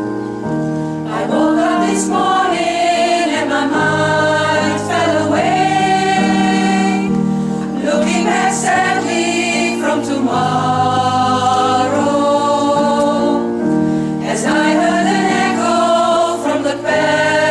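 A choir singing a slow ballad in several voices, with piano accompaniment holding low notes beneath.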